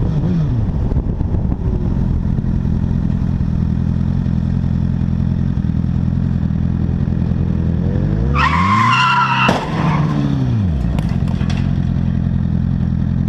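Steady vehicle running noise, then about eight seconds in tyres squeal in a skid for about a second, ending in one sharp crash impact, with a few faint knocks just after.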